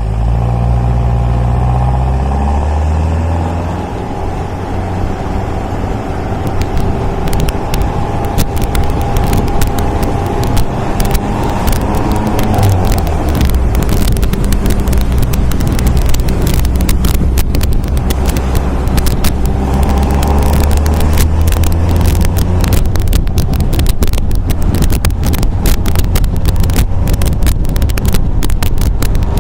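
MGA roadster's four-cylinder engine running on the road, with wind buffeting the microphone more and more from about seven seconds in. The engine note eases off about four seconds in and swells again around twenty seconds in.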